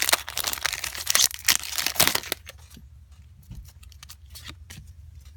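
Foil booster-pack wrapper being torn open and crinkled, a dense crackling for about two and a half seconds, then only faint scattered ticks of handling.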